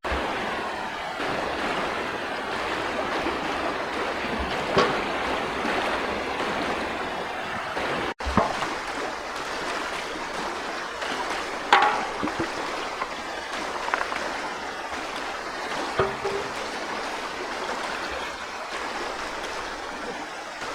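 Flowing stream water, a steady rushing hiss, with a few brief knocks and splashes over it; the sound drops out for an instant about eight seconds in.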